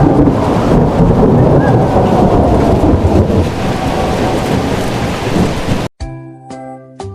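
Heavy rain with rumbling thunder, a dense steady wash of noise. It cuts off abruptly about six seconds in, and a few bright chime notes of a children's jingle begin.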